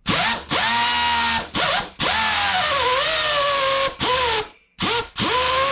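Pneumatic angle grinder, partly melted yet still running, triggered in about six bursts with a pitched whine that rises as it spins up each time. The longest run, about two seconds, sags in pitch partway through.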